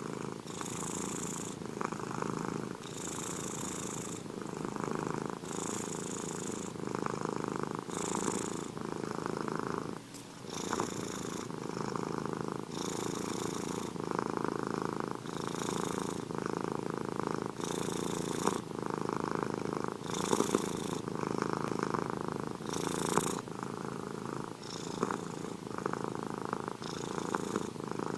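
Domestic cat purring close up, a steady low rumble that swells and eases with each breath, about once every two to two and a half seconds, with a breathy hiss on each cycle.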